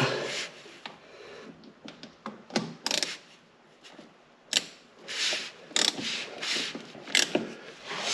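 Hand tools on metal: irregular clicks and short scrapes of a wrench tightening a drain plug back into a tractor axle hub. The activity is sparse at first and busier in the second half.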